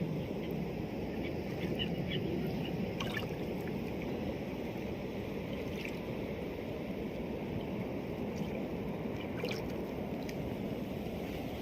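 Steady low rumble of a lake cruise boat underway, with the wash of water along the hull and a few faint ticks.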